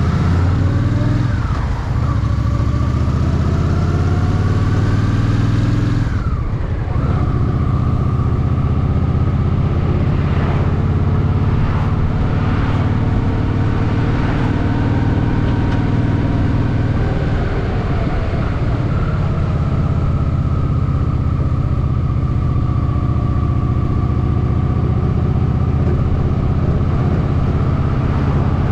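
Honda Shadow VT750's V-twin engine running on the move, loud and close. The revs climb, drop sharply about six seconds in, then hold at a fairly steady pitch.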